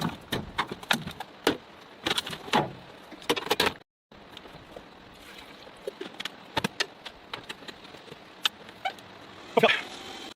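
Irregular clicks, knocks and small clatters of camping gear and containers being handled. A cluster of sharper knocks comes near the end, and the sound cuts out briefly about four seconds in.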